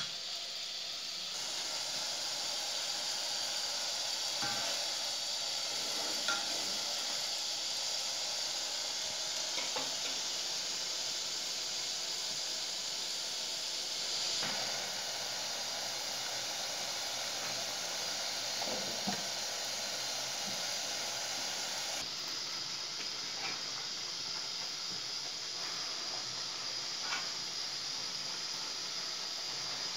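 Food sizzling in a saucepan on a gas burner: a steady hiss, with a few light clicks of a spoon against the pan.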